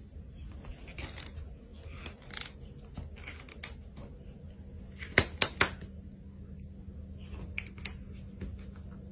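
A series of sharp clicks and snips, scattered, with three loud clicks in quick succession a little past the middle.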